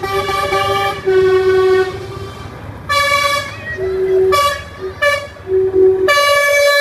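Lorry horns sounding in a string of long and short blasts at several different pitches, some overlapping, over the low rumble of passing truck engines; the loudest blast comes near the end.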